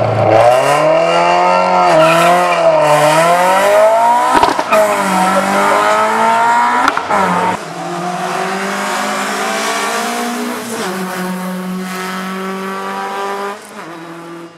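Rally car engine revving at the start line, then pulling away hard, its pitch climbing and falling back with each gear change. About halfway through, a farther-off, steadier engine note takes over, and it fades away near the end.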